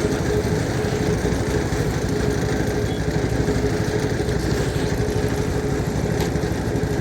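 A small engine running steadily at an even speed, with a constant hum and no change in pitch.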